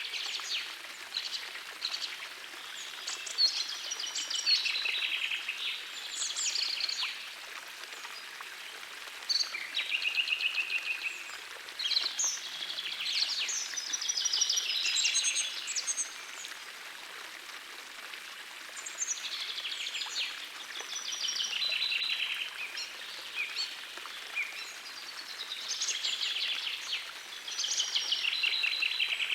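Songbirds singing trilled phrases a couple of seconds long, one every few seconds, over the steady rush of a gentle forest stream.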